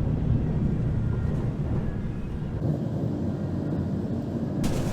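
Steady low rumble inside a passenger train carriage, with a brighter hiss joining near the end.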